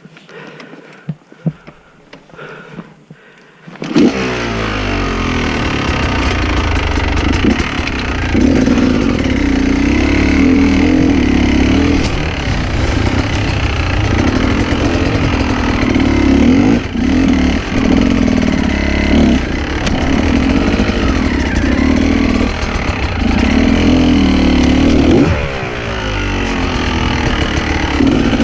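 Enduro dirt bike engine starting about four seconds in, then running with the revs rising and falling repeatedly.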